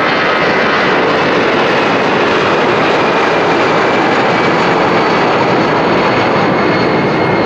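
Airbus A340-300's four CFM56 turbofan engines running at takeoff thrust: a loud, steady jet noise with a faint high whine over it.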